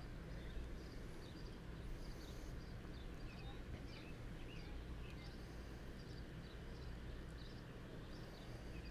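Faint outdoor ambience: birds chirping now and then in the background over a low steady rumble.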